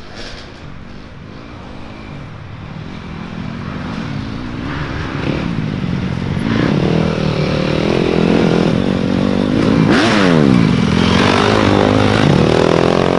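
Racing dirt bike engines revving up and down through the gears as the bikes come closer, getting louder from about four seconds in. In the second half, more than one engine is heard at once at different revs.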